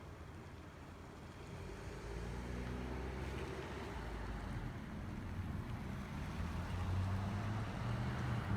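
A car engine running with a low hum that grows gradually louder, along with a light rushing noise.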